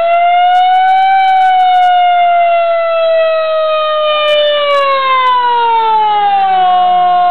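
Old fire truck's siren wailing: its pitch climbs in the first second, then falls slowly over a few seconds and holds steady at a lower pitch near the end.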